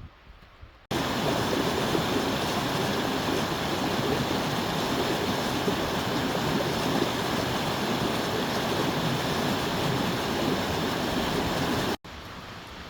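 Mountain gorge water rushing in a steady, loud hiss, cutting in abruptly about a second in and cutting off abruptly near the end.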